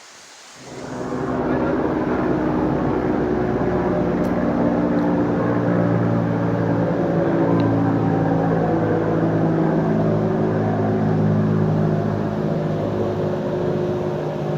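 A vehicle engine comes in about half a second in and runs steadily, its pitch drifting slightly.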